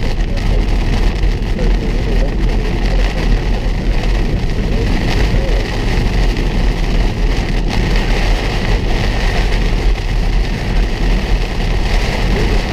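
Steady road and engine noise of a car driving at highway speed, heard from inside the vehicle.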